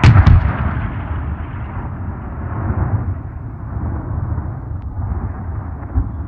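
Explosion sound effect: a sharp blast with a second crack right after it, then a long low rumble that slowly fades, with a small thud near the end.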